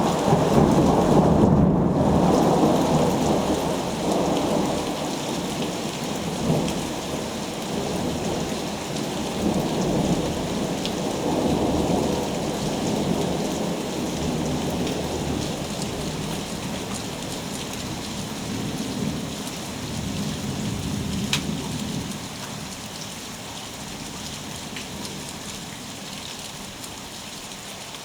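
Long rolling thunder, loudest at the start and dying away over about twenty seconds, over steady rain falling.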